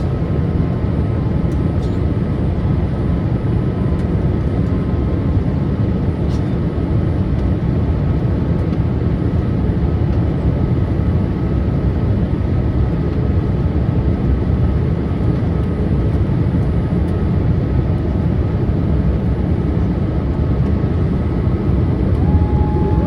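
Steady cabin noise inside a Boeing 787-8 airliner on approach: a low rumble of engines and airflow heard over the wing. A steady whine begins near the end.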